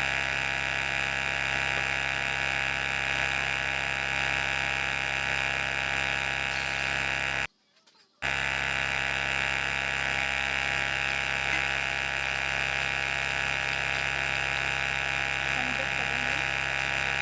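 Small electric motor of a DIY model sand-screening machine running with a steady buzzing whine. It cuts out for under a second about halfway through, then carries on unchanged.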